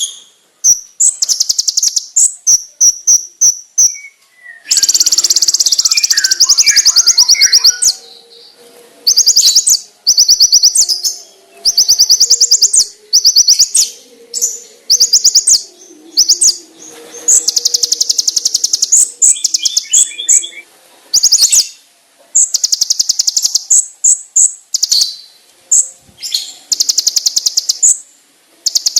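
Olive-backed sunbird (konin) singing: rapid, high, sharp trills in bursts of a second or two, separated by short pauses.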